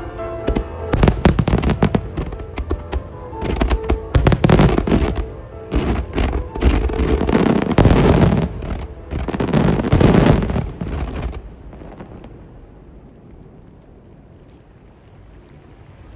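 Aerial fireworks finale: a rapid barrage of shell bursts with booms and crackling through the first eleven seconds or so, heaviest near the end of the barrage, then dying away to a low background.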